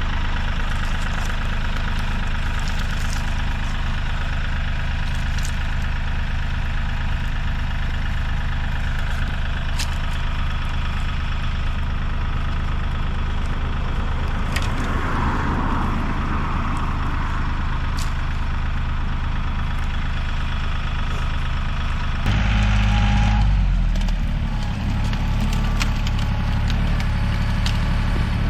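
Kioti CK3510 compact tractor's three-cylinder diesel engine running steadily. It gets briefly louder and heavier about three-quarters of the way through, as if put under load or revved.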